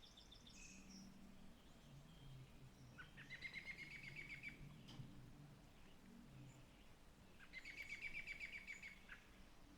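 Faint forest birdsong: a songbird's rapid trill of quickly repeated notes, given twice, about three seconds in and again near the end, with a brief high chirp at the start.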